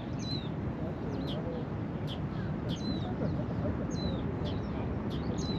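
Small birds chirping: short high chirps and brief down-slurred whistles, one every half second to second, over a steady low rushing noise.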